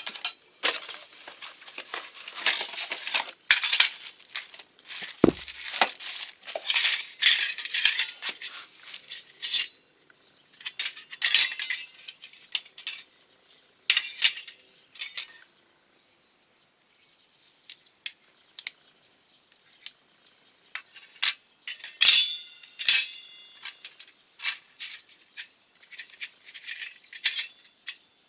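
Stainless steel camp stove being handled: thin metal parts clink and rattle in irregular bursts, with a brief ringing clang about three-quarters of the way in and a dull thump early on.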